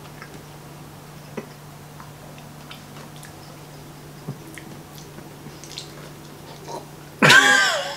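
Faint chewing of a tough piece of veggie jerky: scattered small wet clicks and squishes from the mouth. Near the end a loud vocal groan.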